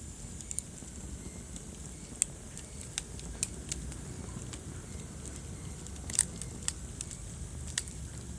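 Wood fire burning in a fireplace: a low, steady rumble of flames with irregular sharp crackles and pops. The loudest pops come about two seconds in and just after six seconds.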